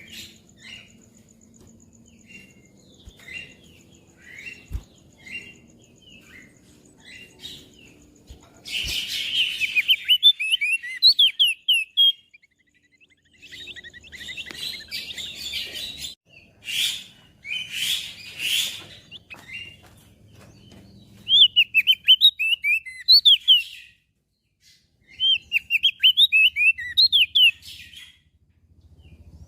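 Crested white-eye (opior jambul) singing. It starts with faint, short chirps, then from about a third of the way in gives loud, fast twittering song phrases mixed with harsh, scratchy bursts, broken by short pauses.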